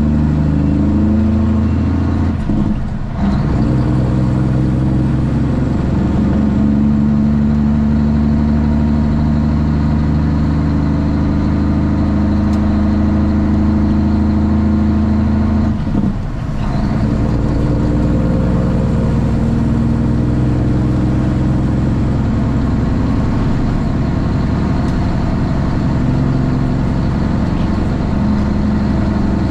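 Straight-piped Cummins ISX diesel engine of a Kenworth T800 running under way, with a steady exhaust note. The note breaks off briefly twice, about three seconds in and again about sixteen seconds in, and comes back at a different pitch each time.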